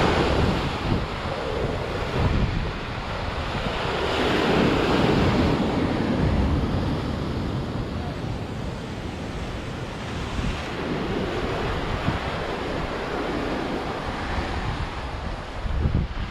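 Sea waves breaking and washing ashore in a continuous surf wash, swelling loudest about four to six seconds in and again more gently later.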